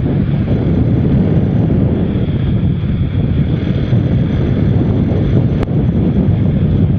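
Wind buffeting the microphone of a rider on a moving motorcycle, a steady low rumble, with one short click about five and a half seconds in.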